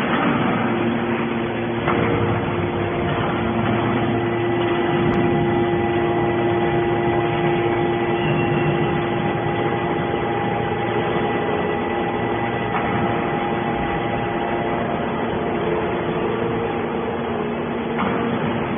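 Hydraulic scrap metal baler running, a steady mechanical hum with a few held tones and occasional soft knocks.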